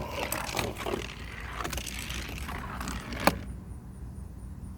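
Hot Wheels die-cast toy cars running down a plastic track, rattling and clicking against the track, with one sharp clack a little over three seconds in.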